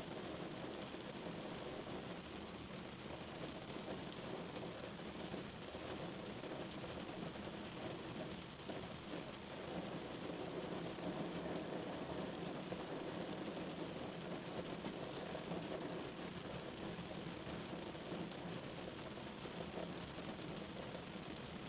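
Rain drumming steadily on a car's roof and body, a dense patter of drops with a low, hollow undertone.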